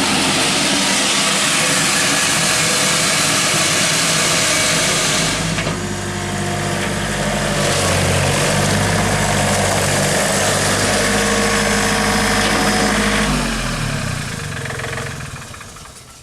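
John Deere 3320 compact tractor's three-cylinder diesel engine running steadily, its note shifting about five seconds in. Near the end the engine sound stops and dies away.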